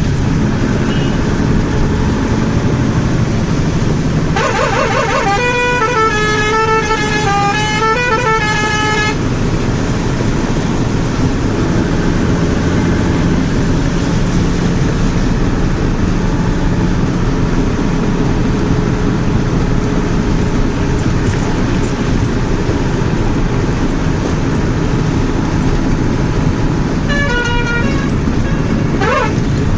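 A truck running steadily on the road, with an engine and road-noise rumble throughout. A vehicle horn sounds for several seconds starting about four and a half seconds in, its pitch wavering and stepping. A shorter horn sounds near the end.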